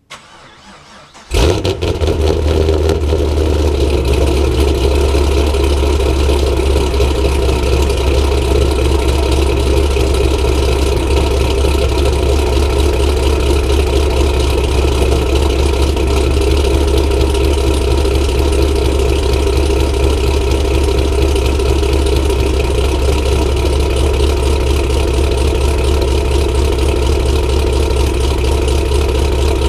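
Supercharged 2006 Pontiac GTO's 6.0-litre LS2 V8 fires up on a cold start about a second and a half in, then runs on at a steady idle.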